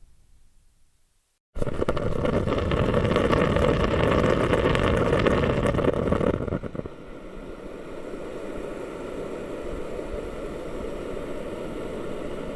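Humidifier bubbling, starting suddenly about a second and a half in as a loud, dense bubbling, then settling after about five seconds into a quieter, steady bubbling.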